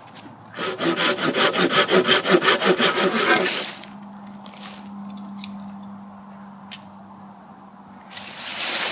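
Folding hand saw cutting dead wood with quick, even back-and-forth strokes for about three seconds, then stopping. A few light knocks follow, and loud rasping starts again near the end.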